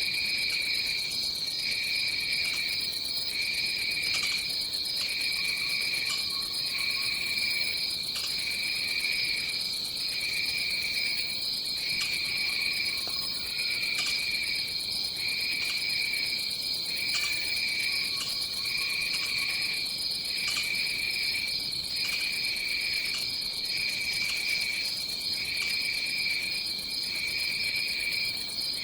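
Tropical rainforest ambience: a steady, high-pitched chorus of insects, over which a lower insect trill pulses on and off about once a second. A few faint, short, low calls come through now and then.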